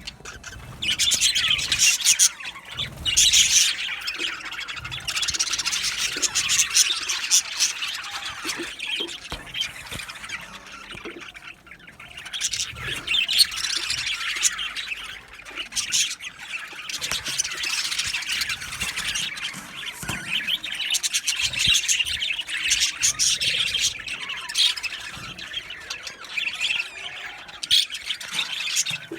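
A flock of budgerigars chirping and chattering together in many overlapping calls, easing off briefly around the middle before picking up again.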